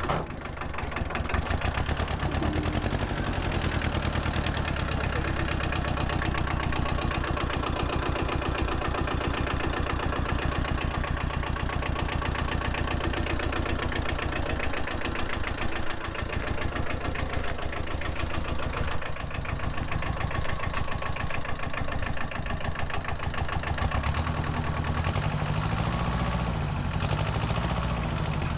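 Tractor engine running steadily, changing speed a few seconds before the end.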